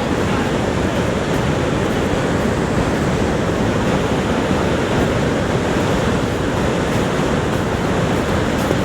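Niagara Falls: a steady, unbroken rush of falling water, deepest and strongest in the low and middle range.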